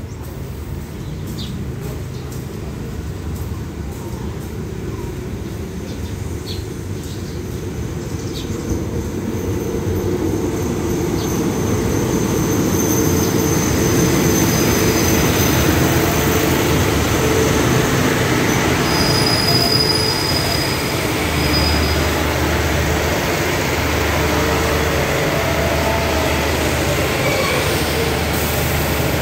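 Diesel railcar express train pulling into the station, its rumble growing louder as it arrives, with brief high-pitched wheel and brake squeals. After it stops, a low hum comes and goes near the end.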